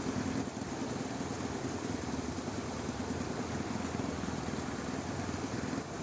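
Dense chorus of frogs in a flooded rice paddy: many overlapping, rapidly pulsing croaks blending into a steady low throb.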